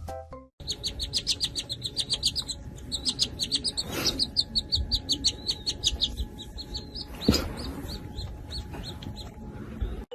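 A small bird chirping rapidly and repeatedly in short high notes, about seven a second, with two sharp knocks partway through.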